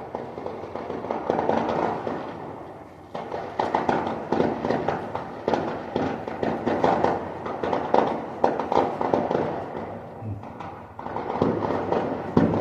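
Fireworks going off in long runs of rapid crackling pops. The runs break off briefly about three seconds in and again near the ten-second mark.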